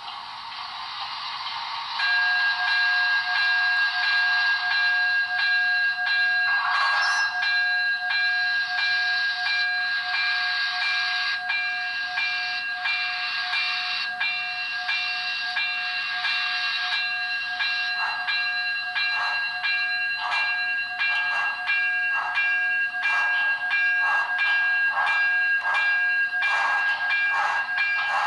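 Sound decoder of an HO-scale Broadway Limited Baldwin 2-8-0 model steam locomotive playing a chime steam whistle. The whistle comes in about two seconds in and is held for a long time over the steam exhaust hiss, with steady chuffs about one or two a second coming through in the second half.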